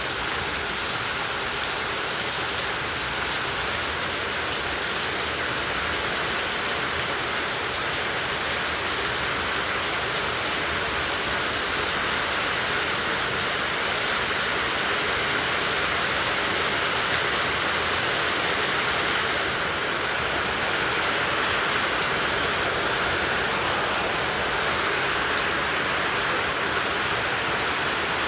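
Heavy tropical rain falling steadily in a dense, even hiss, recorded on a phone. The highest part of the hiss dips slightly about two-thirds of the way through.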